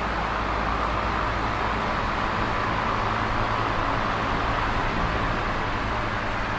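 Electric fan running steadily: an even whooshing rush of air with a low motor hum underneath.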